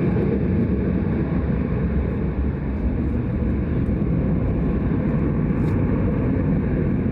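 Turbofan engines of a Xian Y-20 heavy transport aircraft running, a steady low rumble that holds its level throughout.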